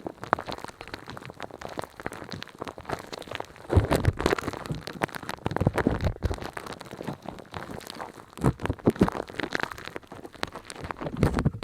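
Dense, close-up crackling and clicking, like a rapid patter, with louder clusters of crackles about four, six, nine and eleven seconds in.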